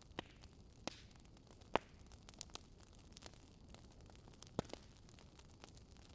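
Wood fire burning in a fireplace, crackling: irregular sharp pops and snaps from the burning wood over a faint steady hiss, the loudest snap near two seconds in.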